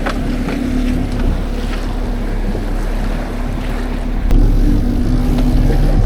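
A fishing boat's engine running steadily under way, a low rumble with a steady hum, along with wind buffeting the microphone and rushing water. It gets a little louder about four seconds in.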